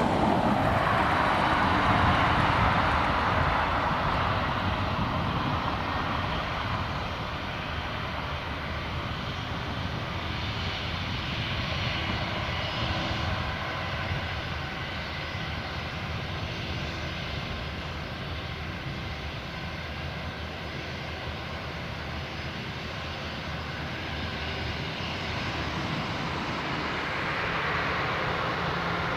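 Boeing 787-8 Dreamliner's jet engines on departure: the sound is loudest in the first few seconds, then fades as the airliner climbs away, swelling slightly again near the end.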